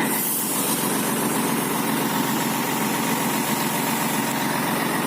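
Heavy truck's diesel engine idling steadily, with a short hiss at the very start.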